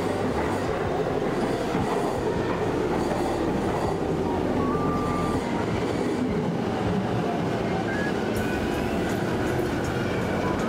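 JR Yamanote Line electric commuter train running along the platform: a steady rumble of wheels on rail with clicking over the rail joints, and a brief high squeal about halfway through.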